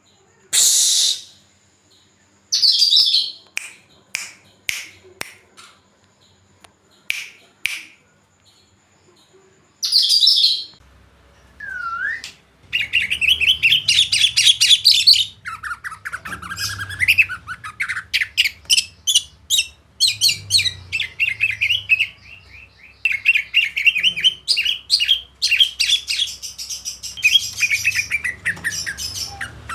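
Songbird singing: a few separate sharp chirps at first, then, about twelve seconds in, a fast, varied song of rapid trills and warbles that runs on without a break.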